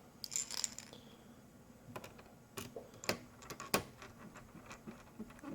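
Small scattered clicks and taps from handling tiny laptop screws and case parts, with a brief rattle about half a second in.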